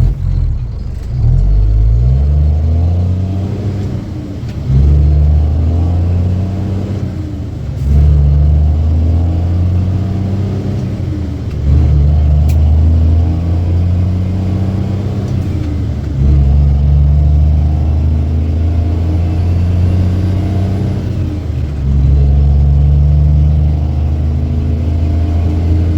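M11 Cummins diesel in a loaded International 8100 dump truck pulling under load, its engine note dropping briefly and then coming back loud about every few seconds as it works up through the gears.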